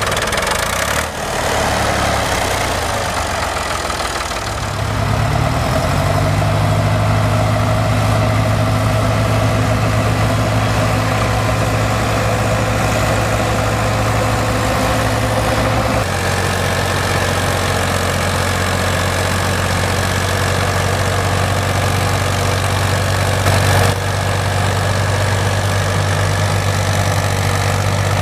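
Tractor engines running steadily at a constant pitch, with no revving. The engine sound changes abruptly about a second in, a little past halfway, and again briefly near the end.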